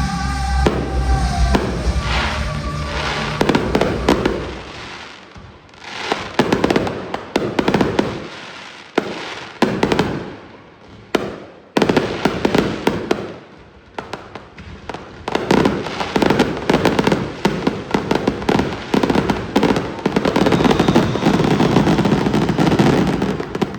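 Aerial fireworks going off in rapid clusters of bangs and crackles, in waves that thin out and build again, densest in the last several seconds. Music fades out in the first couple of seconds.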